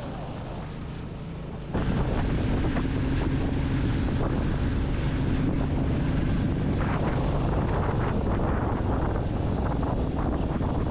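Motorcycle engine running steadily on the move, with wind rushing over the microphone. The sound jumps suddenly louder about two seconds in.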